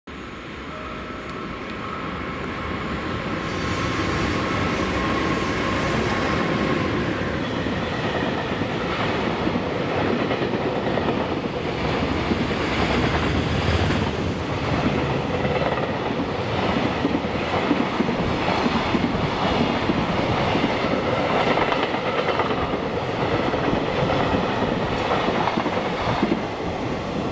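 Freight train of container wagons hauled by an EH500 electric locomotive passing close by, its wheels clattering over rail joints in a steady repeating rhythm. The sound swells over the first few seconds as the train draws level, with a thin whine in the first several seconds.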